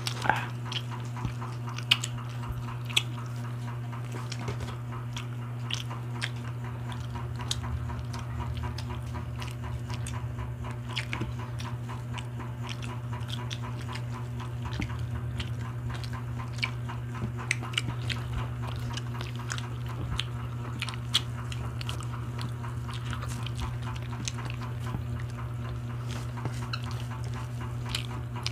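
Close-up eating sounds: several people chewing and smacking on grilled meat, with frequent small sharp clicks, over a steady low hum.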